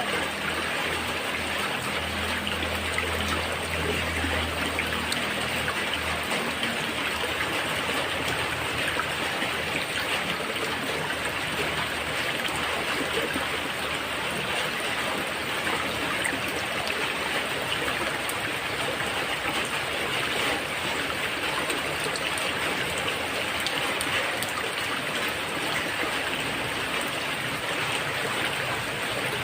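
Steady rain falling on a roof, with water trickling. A low rumble sits underneath for the first few seconds.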